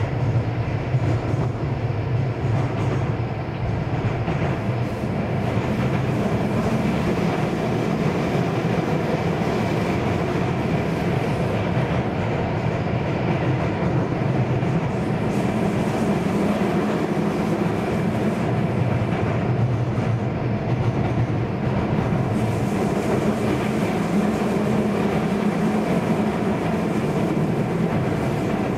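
Keio Series 5000 electric commuter train running steadily, heard from inside the passenger car: a continuous rumble of the wheels on the track.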